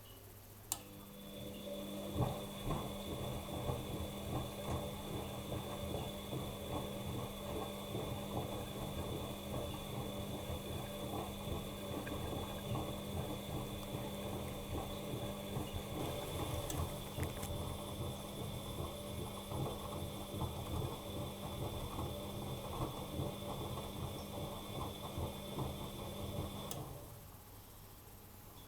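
Bosch Maxx Advantage WFCX2440 washing machine's motor turning the drum during a 40 °C coloureds wash. A steady hum with a high whine runs over the rattle of the tumbling laundry. It starts with a click about a second in and stops suddenly near the end.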